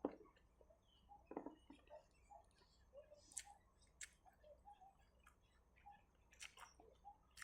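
Faint eating sounds of seafood being chewed: scattered wet clicks and smacks at irregular intervals.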